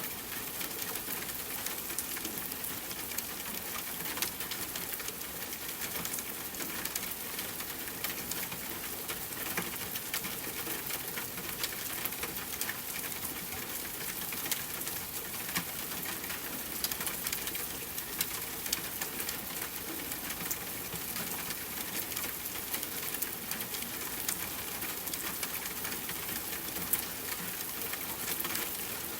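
Steady rainfall with scattered drops ticking.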